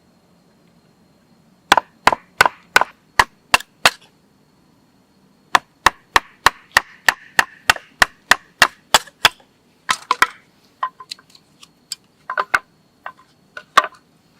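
A blade chopping into wood: sharp, regular strikes at about three a second in three runs with short pauses between, the last run more uneven.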